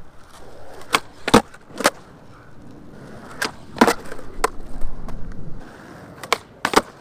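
Skateboard on Avenue suspension trucks rolling over concrete, with sharp cracks from the tail popping and the board landing during flat-ground flip tricks. The cracks come mostly in pairs about half a second apart, about three times.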